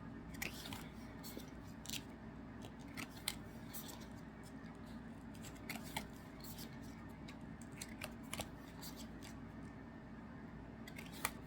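Trading cards being handled and flipped through by hand: faint, irregular little clicks and short slides of card on card.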